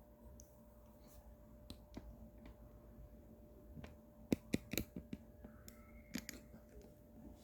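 Small clicks and taps of a pencil and desk items while a child writes in a workbook, a quick cluster of sharper taps about four to five seconds in, over a faint steady room hum.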